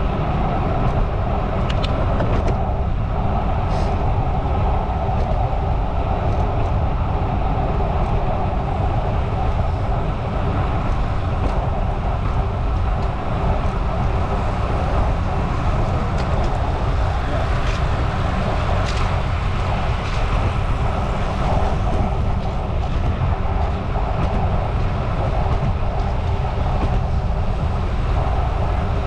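Steady wind and road noise while riding a bicycle: air rushing over the microphone and tyres running on pavement, with a few faint ticks.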